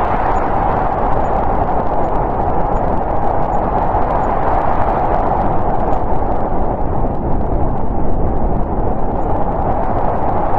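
Snowstorm wind blowing steadily, a dense rushing noise with a hollow note at its centre, its hiss thinning slightly midway and filling out again near the end.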